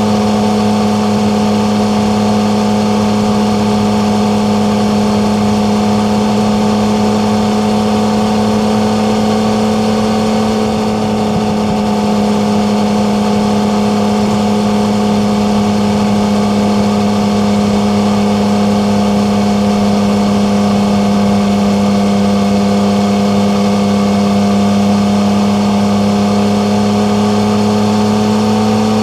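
Yamaha MT-09's three-cylinder engine running at a steady, held speed while cruising. The pitch dips slightly about eleven seconds in and rises a little near the end.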